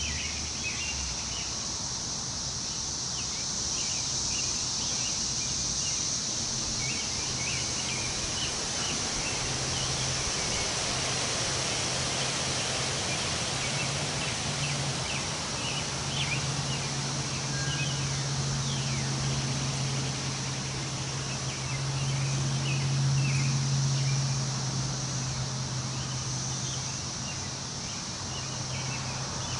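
Wind rustling through tree leaves, with a steady high insect drone and many short bird chirps. A low hum rises in the middle and fades again near the end.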